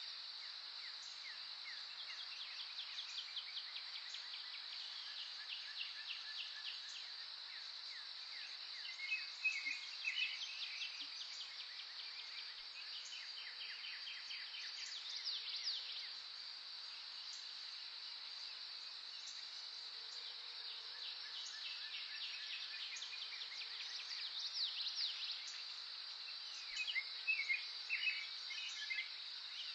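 Outdoor nature ambience: a steady high-pitched insect drone under songbirds singing, with rapid trills of quick descending notes and bursts of chirps that come and go, loudest about a third of the way in and near the end.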